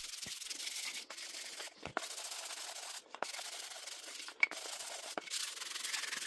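Sandpaper rubbing over a pallet-wood coaster, finish-sanding it smooth before staining: a steady hiss in strokes broken by short pauses about once a second.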